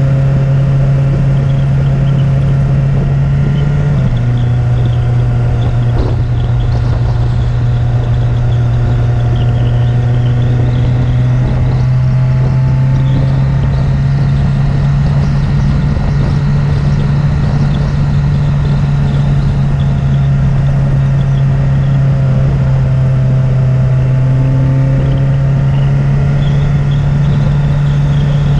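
Vehicle engine running at a steady low pitch while climbing a mountain road, the pitch dipping slightly about four seconds in, under constant wind and road noise on an outside-mounted camera.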